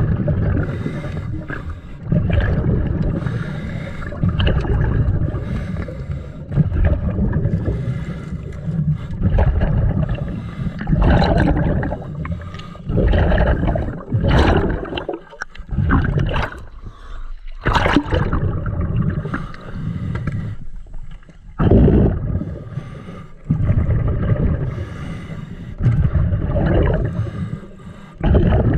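A scuba diver breathing through a regulator underwater, the exhaled bubbles gurgling and rumbling in repeated bursts every couple of seconds.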